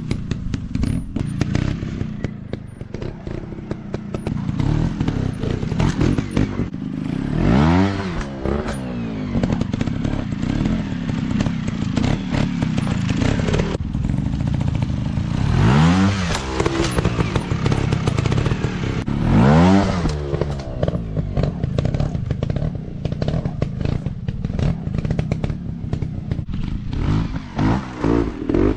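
Dirt bike engines running and revving, with sharp revs that rise and fall in pitch about 8, 16 and 20 seconds in and again near the end. Many clattering knocks throughout.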